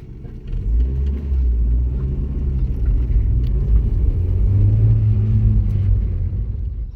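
Motor vehicle engine running with a steady low drone. Its pitch rises a little about four and a half seconds in, and it cuts off suddenly at the end.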